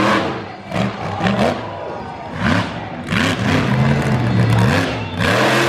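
Monster truck engine revved hard in quick repeated bursts, its pitch rising and falling again and again, with a longer held rev near the middle.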